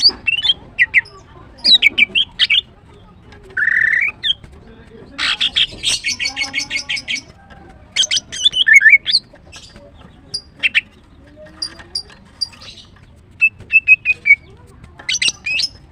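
Female greater green leafbird calling: bursts of short, sharp chirps and quick sweeping whistled notes, with a fast rattling run of repeated notes about five seconds in that lasts some two seconds.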